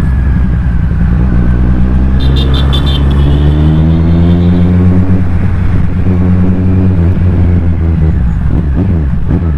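Kawasaki Z1000R's inline-four engine on its stock exhaust, ridden on the road: the engine note climbs steadily for about three seconds, drops back around the middle as the revs fall, holds steady, then eases off near the end.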